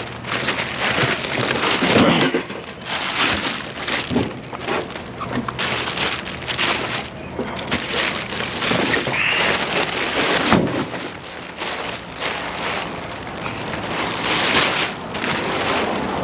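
Plastic bag rustling and crinkling, with scattered knocks, as a bagged microwave oven is handled and opened up.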